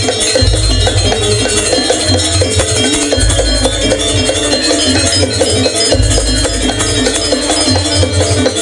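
Live Banyuwangi (Osing) traditional ensemble music: steady bell-like metallic tones over a deep drum that comes in and out in stretches.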